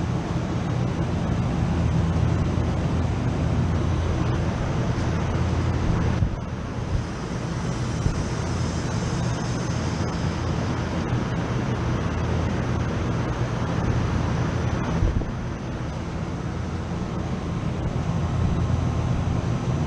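Refrigeration compressor rack with its condenser fans running: a steady low hum under a broad airy rush, with a few faint ticks.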